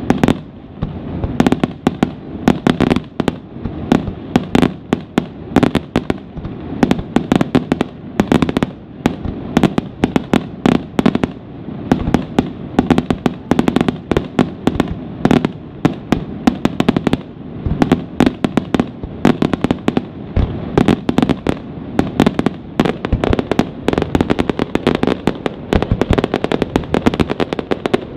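Aerial fireworks display: a dense, unbroken run of shell bursts, several sharp bangs a second, over a continuous rumble.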